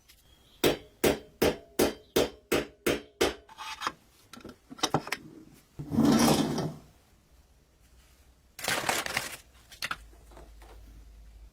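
A run of about eight quick hammer taps on the toy truck's steel parts, roughly three a second, each with a slight ring. Then two short stretches of rubbing or scraping.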